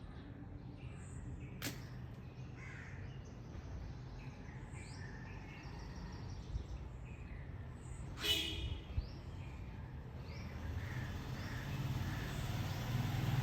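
Small birds chirping over and over, with a crow giving one loud harsh caw about eight seconds in, over a low steady rumble. A single sharp click comes near the start.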